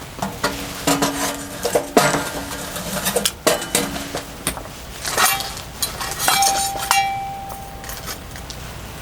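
Metal cookware and utensils clinking and knocking as they are handled, with short ringing notes and one longer ringing note about two thirds of the way through.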